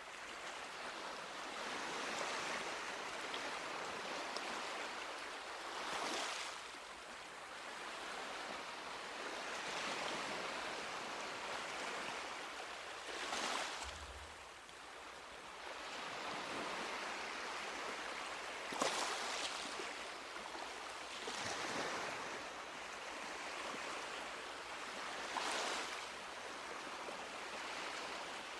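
Small sea waves breaking and washing up a beach, with a wave surging every few seconds over a steady wash.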